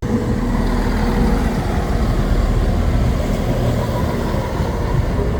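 Heavy diesel engine running close by, a steady low rumble with a few faint steady tones above it.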